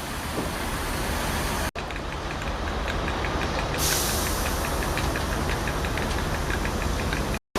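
Large vehicle engine running steadily, with a short burst of hiss about four seconds in; the sound breaks off abruptly twice at cuts between shots.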